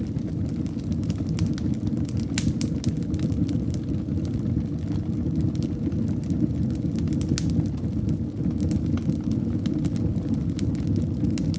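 Fire burning in a fireplace: a steady low rumble of flames with frequent sharp crackles and pops, a louder pop about two seconds in and another about seven seconds in.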